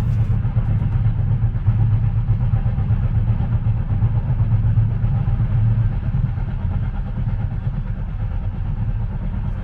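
Moving train running with a steady low rumble, easing off slightly near the end.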